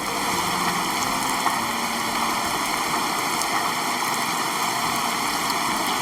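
Steady rushing water noise, even and unbroken throughout, starting abruptly as the music before it stops.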